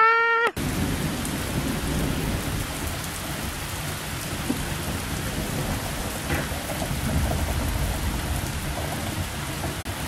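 Heavy rain pouring down onto flooded pavement, a dense steady hiss with a low rumble underneath that swells about seven seconds in.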